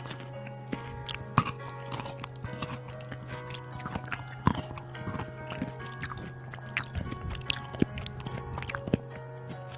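A person chewing and biting food close to the microphone, with many small crunches and wet clicks, over background music.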